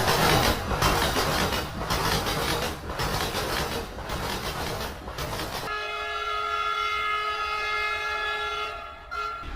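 Train running on the rails, a steady rumble with a knock about once a second from the wheels over the track joints. About halfway through it gives way abruptly to a long, steady train horn blast that lasts about three seconds and then cuts off.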